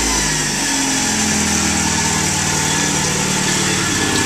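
Stripped-out race car's engine running just after start-up, its revs falling away from a blip in the first second and then holding a steady idle.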